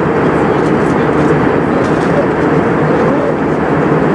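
Steady engine and airflow noise of an Airbus A320 airliner, heard from inside the cabin.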